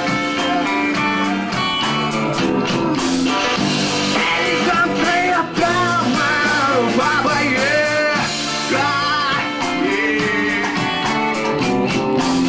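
Rock band playing: guitars, bass and drums with cymbal hits, and a lead line that bends and wavers in pitch through the middle of the passage, between sung verses.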